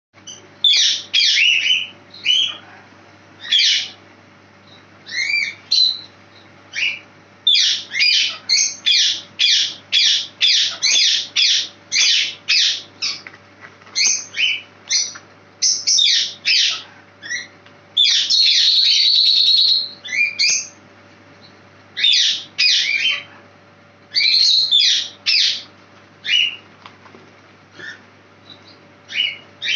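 A small bird calling: runs of short, sharp chirps, several a second at times, with one longer call lasting about two seconds a little past the middle.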